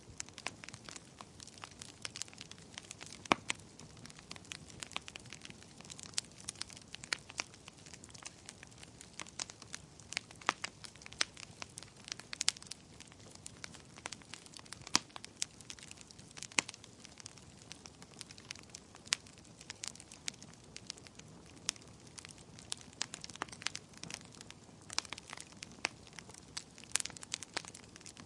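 Wood fire burning, with sharp irregular crackles and pops over a faint steady hiss.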